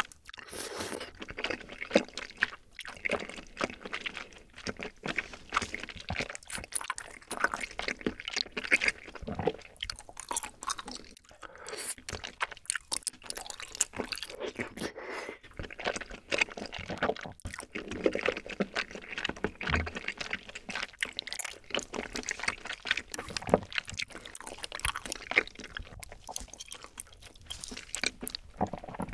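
Close-miked chewing of rosé tteokbokki: rice cakes and wide glass noodles in a creamy sauce, chewed in one mouthful after another with many small wet clicks.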